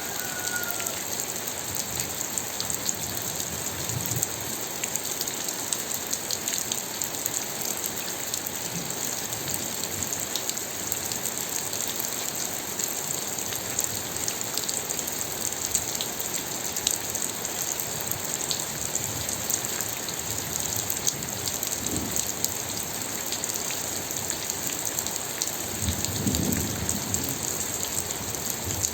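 Steady rain falling, a dense hiss with many individual drops ticking. A low rumble swells in near the end.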